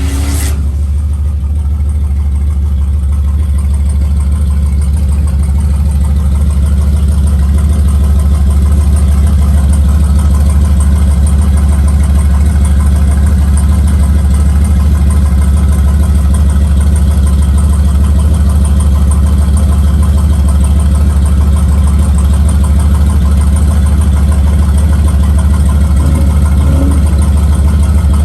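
Large engine idling with a loud, steady low rumble that grows louder over the first several seconds, with a sharp click just after the start.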